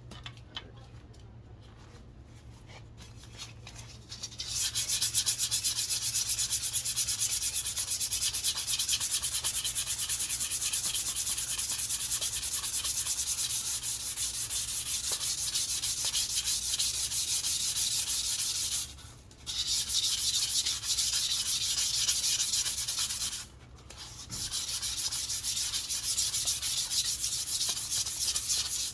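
Abrasive paper sanding a wooden walking stick: a steady, dense scratching hiss starts about four seconds in and runs on, broken by two brief pauses.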